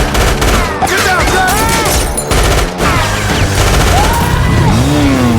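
Action-film sound mix: rapid bursts of gunfire with sweeping pitch glides, over a driving film score.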